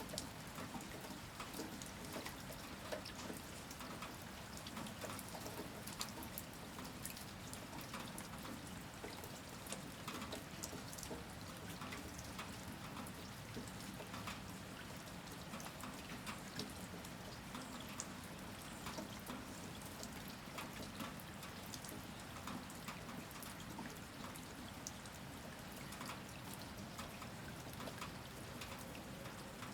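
Steady rain falling, with many separate drops pattering and dripping onto a hard surface.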